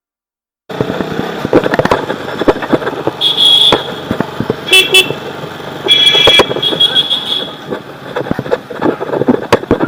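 Motorcycle ride noise with wind on the microphone, starting suddenly, and vehicle horns honking three times, short blasts a second or so apart.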